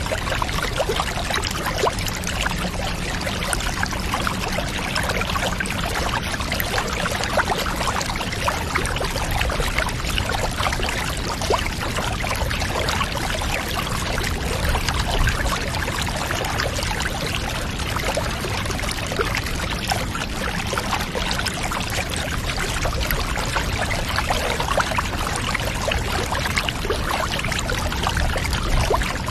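Water pouring and splashing steadily, a dense, even rush with many small splashes.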